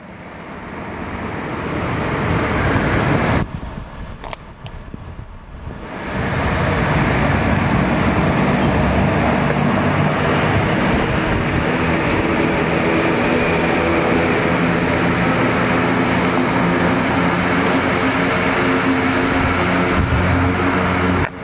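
Vespa PX two-stroke engine with a Malossi Sport 187 cylinder kit and W1R Torque+ expansion exhaust, climbing in revs for about three seconds, then dropping off sharply for a couple of seconds. From about six seconds in it runs steadily and loud, its pitch wavering slightly.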